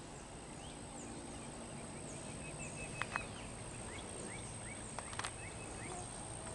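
Woodland ambience: a steady high insect drone under birds giving many short, repeated chirps. Two pairs of sharp clicks come about three and five seconds in.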